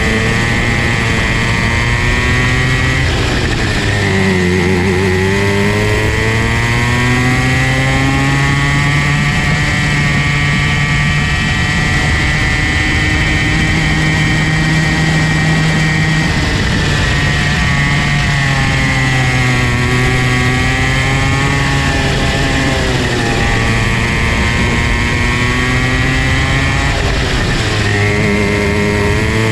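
Comer C50 50cc two-stroke kart engine running without a break, its pitch dropping three times as the revs fall and climbing back up each time as the kart accelerates again.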